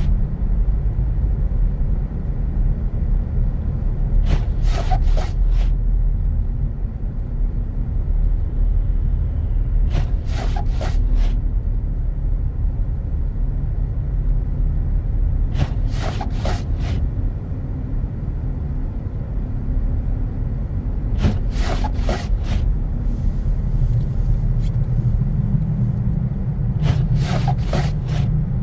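Steady low rumble of a car driving on snowy roads, heard from inside the cabin. A short cluster of three or four ticks comes about every five to six seconds, five times.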